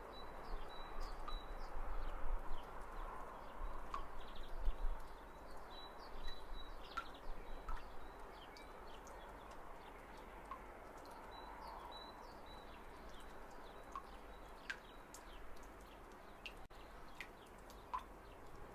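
Outdoor garden ambience: scattered short bird chirps and calls over a steady low background rumble, with a faint high steady tone running through.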